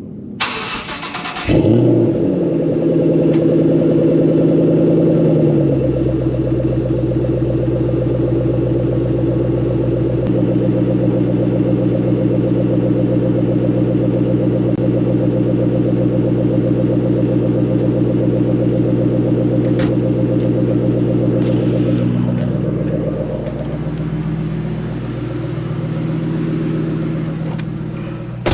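Stock 2014 Shelby GT500's supercharged 5.8-litre V8 cold-started: the starter cranks for about a second and a half, then the engine catches with a loud flare and settles into a high cold idle that drops in steps. Near the end the revs are raised and fall back a few times, climbing sluggishly, which the owner thinks could be because the engine hasn't warmed up yet. A brief knock comes at the very end.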